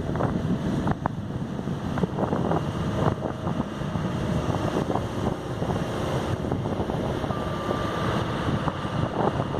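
Excavator running, with a steady engine rumble, scattered metallic clanks and wind buffeting the microphone. A faint high tone comes and goes near the end.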